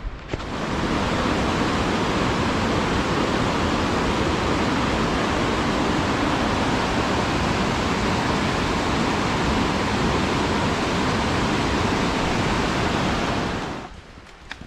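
Steady rushing of flowing water, a creek or small cascade heard close up. It cuts in abruptly just after the start and stops abruptly about a second before the end.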